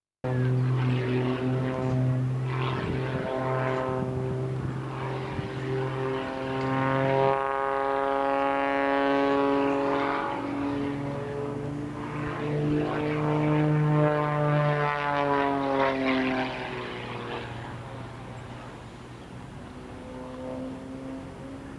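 Piston-engined propeller airplane flying by, its engine drone sliding up and down in pitch as it passes, then fading near the end.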